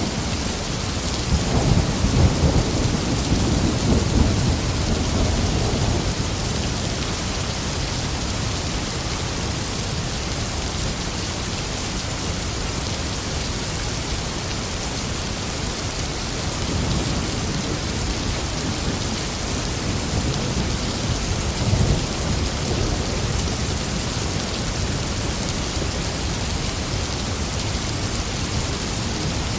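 Steady heavy rain with thunder rumbling: a long roll of thunder a couple of seconds in, and fainter rumbles later on.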